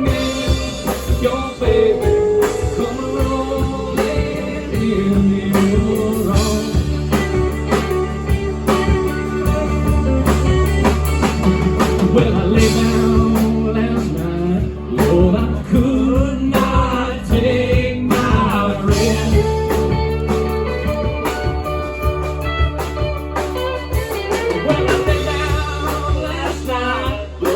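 Live rock band playing an instrumental passage: a wavering, bending lead line over steady bass and drums.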